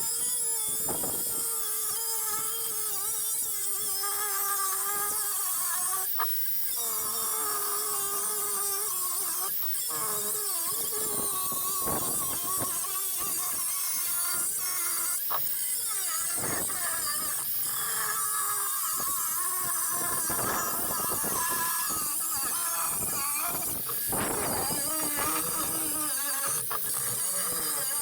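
A power tool cutting through the steel shell of a sealed refrigerator compressor, running steadily with a wavering pitch as it bites into the metal.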